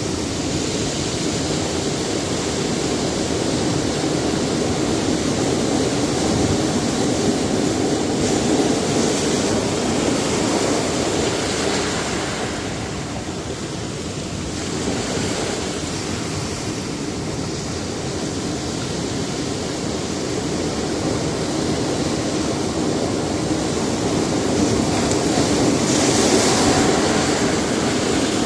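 Sea surf breaking against a rocky shore, a continuous wash of waves that swells and ebbs, with a surge near the end.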